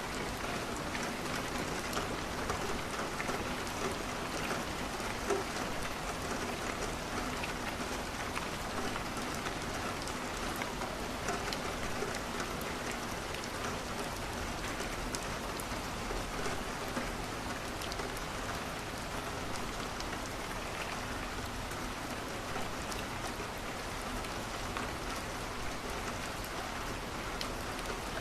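Steady rain pattering on a window, with many small scattered ticks of drops and a wood fire crackling.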